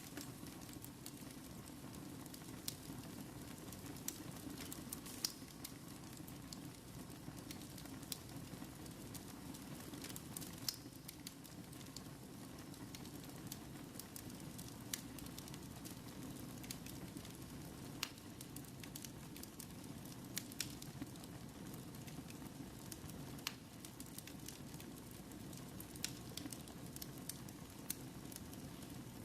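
Wood fire burning in a fireplace: a steady low hiss with irregular sharp pops and crackles.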